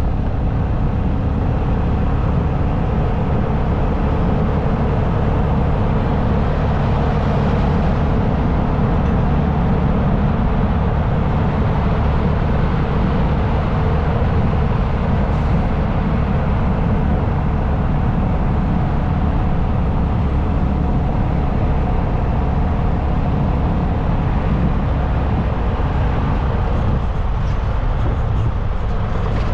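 Motorcycle cruising at a steady highway speed: an even engine drone under heavy wind rush on the microphone.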